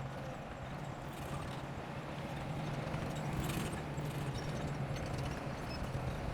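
Bulldozer's diesel engine running steadily under load, with irregular clanking from the working machine, growing a little louder toward the end.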